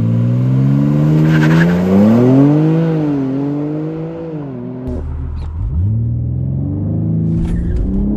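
BMW M3 Competition's twin-turbo inline-six accelerating hard, its pitch climbing and dropping back twice at gear changes. Just before the middle the note falls away, then climbs again from low and holds steady near the end.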